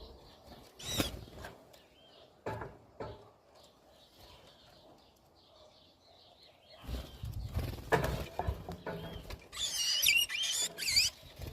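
Wild birds feeding: scattered knocks and rustling, then a quick run of high chirping calls near the end.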